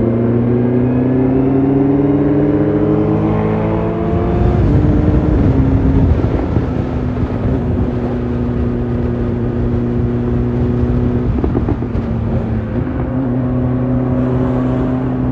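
Motorcycle engine under acceleration, its pitch rising steadily, then a few seconds of loud rushing wind noise about four seconds in, after which the engine settles into a steady note.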